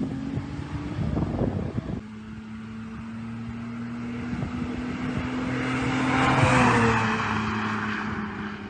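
J32 V6 engine of a swapped Honda Element pulling with its pitch rising. After a cut, its steady engine note grows louder as the car approaches and passes about six and a half seconds in, the pitch dropping as it moves away.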